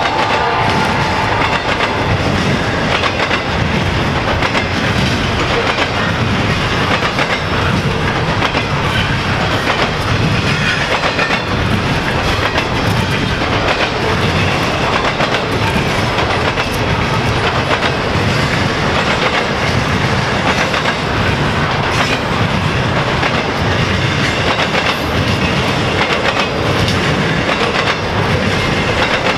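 A double-stack intermodal container train of well cars rolling past at close range, the wheels clacking in a steady rhythm over the track under a continuous rumble. A held tone dies away in the first second.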